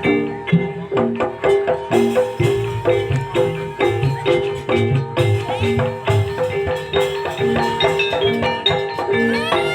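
Javanese gamelan music in campursari style for an ebeg dance: mallet-struck metallophone or bamboo keys playing a quick, steady run of notes over drum strokes.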